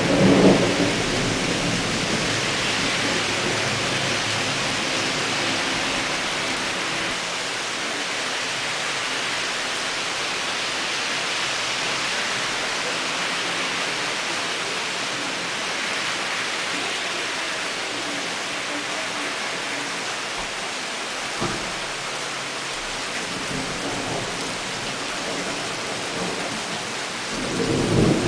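Torrential rain pouring with a steady hiss. Thunder rumbles at the start, fades, and rumbles again near the end.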